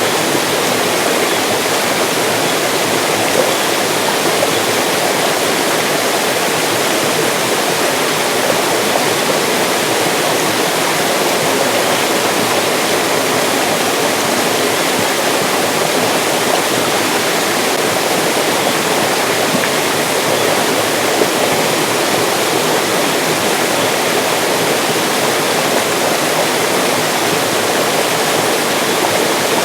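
Mountain stream rushing and splashing over rocks in a steady, unbroken flow.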